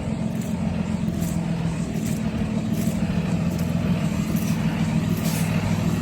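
Box truck engine idling, a steady low hum.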